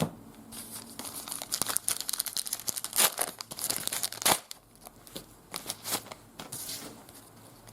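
Trading-card pack wrapper being torn open and crinkled by hand: irregular crackling with two sharper tearing snaps about three and four seconds in.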